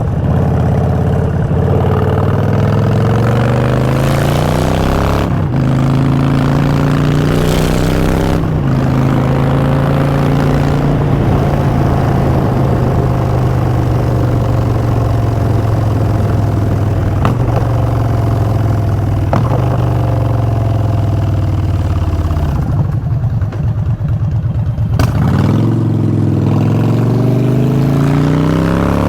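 2016 Harley-Davidson Street Bob's Twin Cam 103 V-twin running through Vance & Hines Short Shots exhaust, accelerating with two upshifts early on, then holding a steady cruise. About three quarters through the throttle closes and the exhaust note falls away, then it pulls up and rises again near the end.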